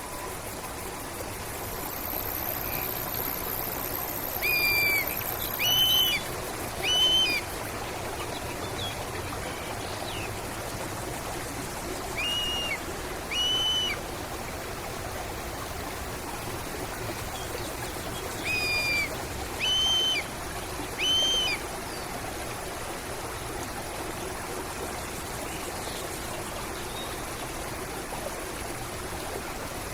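Steady flowing stream water, with a bird giving short whistled notes in groups of two or three, several times.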